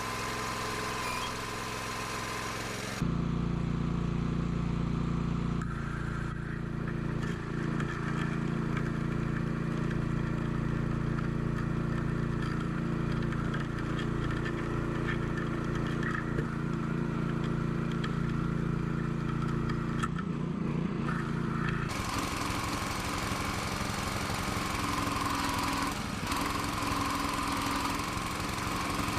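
Small engine running steadily, its sound changing abruptly about three seconds in and again a little past twenty seconds.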